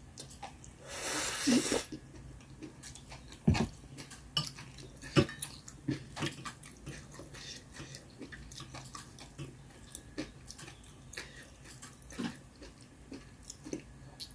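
Close-up eating sounds of someone working through a spicy mala hotpot: chewing and small mouth clicks with scattered light knocks. A brief rushing sound comes about a second in.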